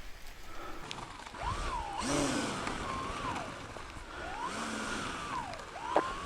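Radio-controlled biplane's electric motor and propeller whining, the pitch rising, holding and falling again twice as the throttle or the plane's distance changes, with a third rise starting near the end.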